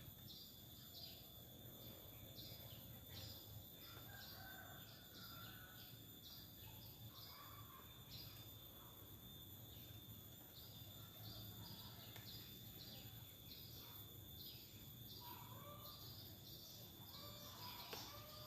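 Faint insects chirping in a steady rhythm, about two chirps a second, over a constant high drone. Brief faint bird calls come in a few seconds in and again near the end.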